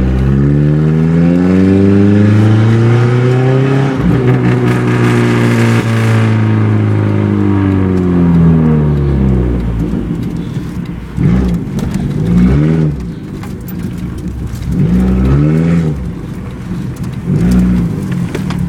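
Chevrolet Cavalier engine running with no exhaust system, its rotted-through pipe ripped off, giving a loud, deep open rumble. It makes one long rev that climbs over the first few seconds, holds, and falls back slowly, then three short blips of the throttle near the end.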